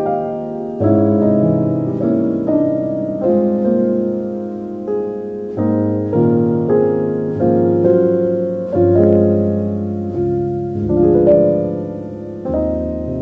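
Slow, gentle solo piano music, notes and chords struck about once a second and left to ring out and fade.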